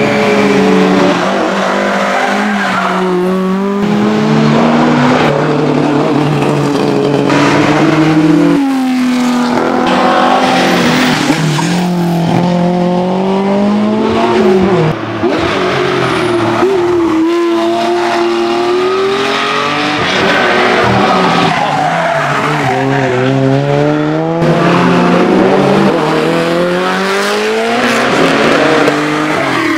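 Historic rally cars driven hard at full race pace, their engines revving up and dropping back again and again through gear changes, loud throughout. The engine note changes abruptly a couple of times as one car gives way to another.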